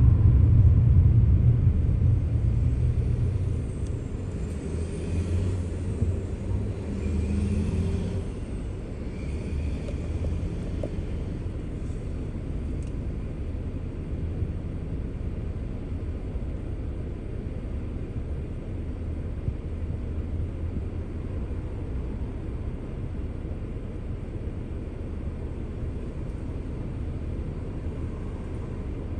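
Car driving: a steady low rumble of engine and road noise, louder for the first few seconds and then settling to an even level.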